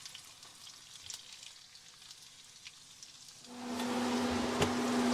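Butter and oil crackling lightly in a hot pan; about three and a half seconds in, seasoned chicken pieces go into the oil and a loud, steady sizzle starts, with a low steady hum alongside it.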